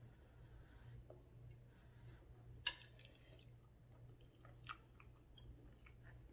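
Faint chewing and mouth sounds of someone eating chicken pot pie, with a few small clicks and one sharp click a little under three seconds in, over a low steady hum.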